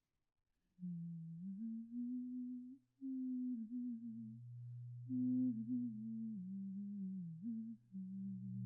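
A woman humming a slow, wandering tune that starts about a second in, over a steady low drone that swells in the second half.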